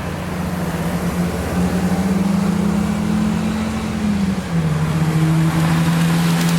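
Car engine running under load with a steady droning note that rises slightly, then drops in pitch about four seconds in, as at a gear change.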